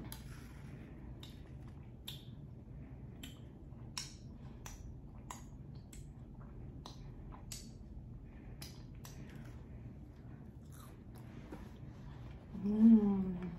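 Close-up chewing of cheese-covered fries: sharp wet mouth clicks and smacks, about one or two a second, thinning out about ten seconds in. Near the end comes a brief hum of the voice, the loudest sound.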